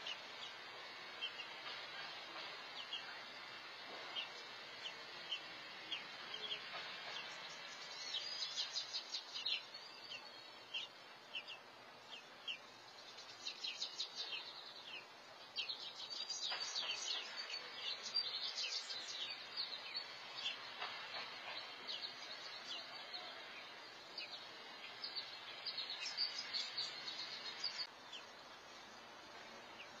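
Small birds chirping: short, high chirps a few times a second over a steady background hiss, coming in quicker flurries several times. The chirping stops about two seconds before the end.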